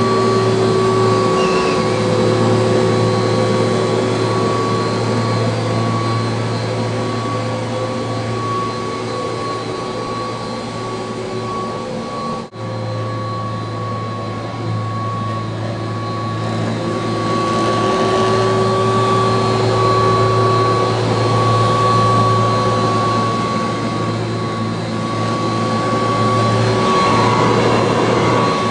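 A Kirby Heritage II upright vacuum cleaner running steadily, its motor giving a constant high whine over a low hum, swelling and easing slightly in loudness. The sound drops out for an instant about twelve seconds in.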